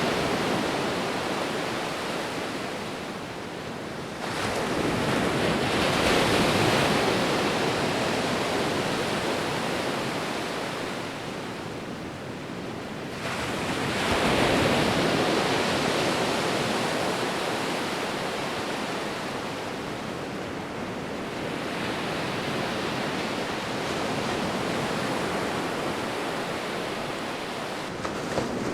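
Sea waves breaking and washing on the shore, a steady surf that swells roughly every ten seconds, with three surges, about four, fourteen and twenty-three seconds in.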